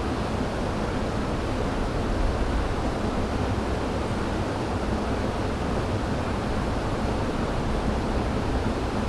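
River water rushing over rocks, a steady full rush of moving water.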